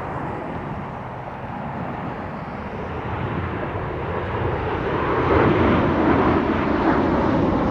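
Jet engines of an arriving Delta Boeing 737-900ER, a steady roar that grows louder and is loudest from about five seconds in as the airliner comes closer.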